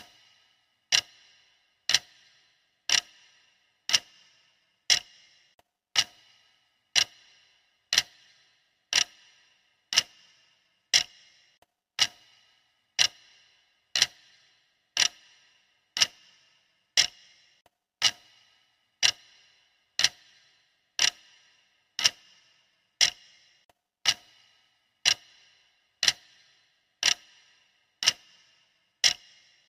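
Clock ticking steadily, one tick a second. Each tick is a sharp click with a brief ring.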